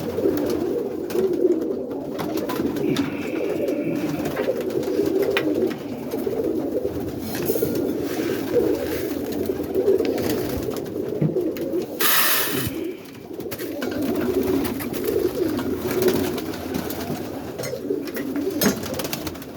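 A loft full of roller pigeons cooing continuously in a small enclosed coop, with scattered small clicks. About twelve seconds in comes one short rush of hissing noise.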